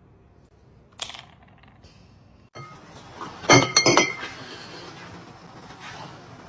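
A quick cluster of hard clinks with a ringing tail, like glass or crockery knocking together, preceded by a single sharp click about a second in.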